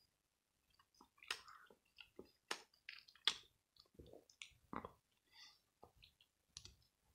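A person chewing and biting a peanut butter, ham and cheese sandwich on white bread: faint, irregular mouth clicks and smacks.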